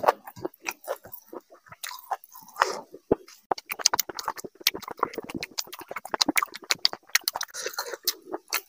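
Close-miked wet chewing and lip smacks from a mouthful of rice and curry: a dense run of quick sharp clicks, busiest through the middle, with fingers squishing and mixing rice on a plate.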